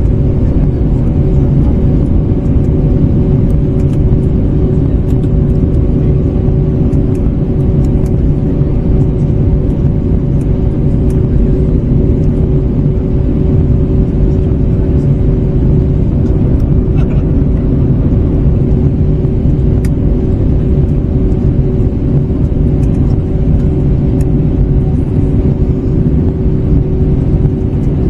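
Steady cabin noise of an Airbus A321neo in flight: a constant low rumble of engines and airflow with a steady two-note hum on top, unchanging throughout.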